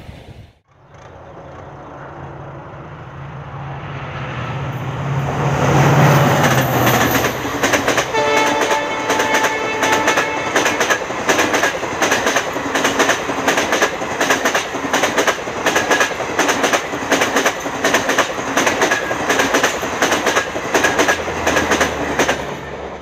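An EMD WDP-4 diesel locomotive hauling a passenger express approaches, growing louder, and sounds its horn for a couple of seconds partway through. The coaches then run past with a steady, rapid clickety-clack of wheels over the rail joints.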